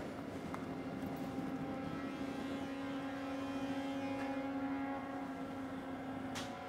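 A steady low drone of a suspense film score, holding one low tone, with a single sharp hit near the end.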